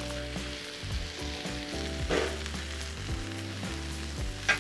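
Diced onion and green pepper sizzling in freshly added canola oil on a hot Blackstone flat-top griddle, a steady hiss.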